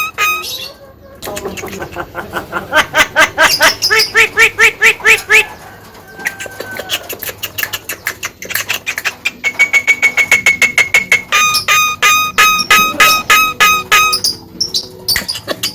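Javan myna calling non-stop in fast runs of repeated whistled and chattering notes, with one held whistle about ten seconds in.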